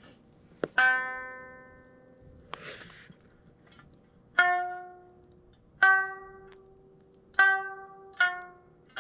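Sanshin being plucked slowly, five separate notes that each ring and fade, playing an instrumental passage between sung verses of an Okinawan folk song. A sharp click comes just before the first note and another about two and a half seconds in.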